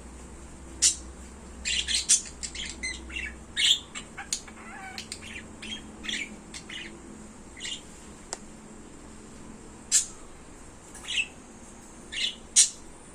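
Pet birds chirping and squawking in short, sharp calls: a busy run of calls in the first few seconds, then a few loud single squawks spaced out after that.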